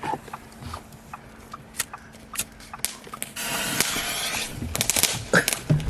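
A few scattered clicks, then a lit firework fuse hissing for about a second, then a string of small firecrackers popping rapidly near the end.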